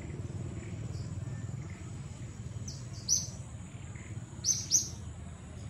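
Short, high bird chirps: a few faint ones, then a loud one about three seconds in and a loud pair near the end, over a steady high thin whine and a low rumble of forest background.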